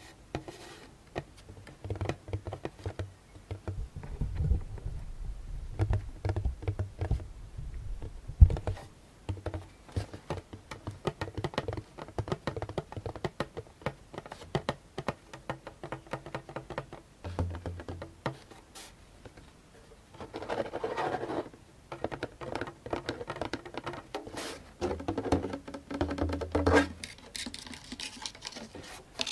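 Fingertips and nails tapping quickly on a djembe, clicking taps mixed with soft low thuds from the drumhead, most in the first third. Later come two short stretches of nails scratching over the drum.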